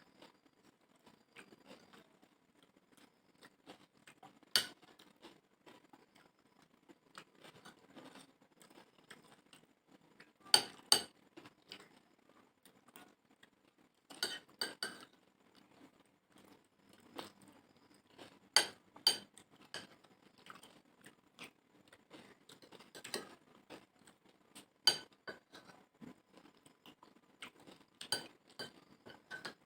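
Spoon clinking against plates of chotpoti during eating: scattered sharp metallic clinks, several loud ones in quick pairs, between quieter handling noises.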